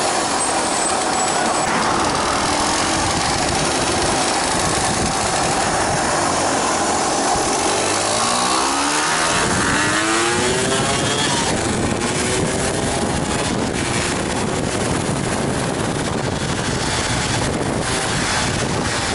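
Yamaha DT230 Lanza's two-stroke single-cylinder engine running under way, mixed with heavy wind noise, its pitch climbing as it revs up about halfway through.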